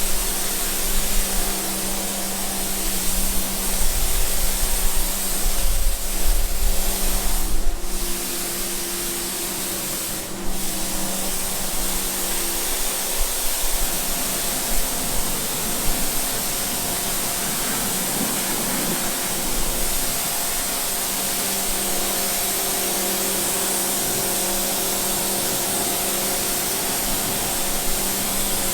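A cleaning machine running: a steady, loud hiss over a motor hum, with two brief knocks in the first half and the hum shifting in pitch about halfway through.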